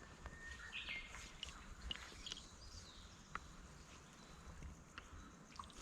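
Faint outdoor background with a few short, faint bird-like chirps in the first second or so and scattered small clicks.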